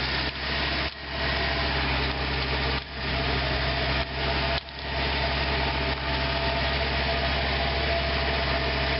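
Vehicle engine idling steadily just after a jump start on a weak battery, with a few brief dips in level.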